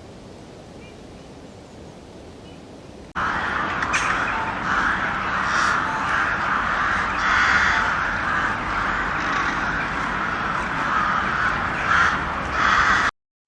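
Birds calling in a loud, busy run of repeated calls. The calls begin suddenly about three seconds in, after a quieter stretch of background noise, and cut off abruptly just before the end.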